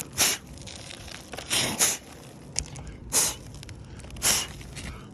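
Five short gritty scrapes and crunches on asphalt roof shingles, about a second apart, from the shingles being handled or stepped on.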